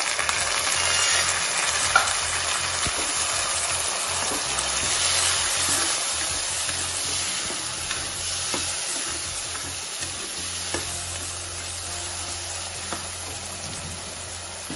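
Chopped tomatoes and green chillies sizzling as they fry in hot oil with onions and garlic in a steel kadhai, stirred with a steel ladle that clinks against the pan now and then. The sizzle is loudest in the first few seconds and eases off slowly.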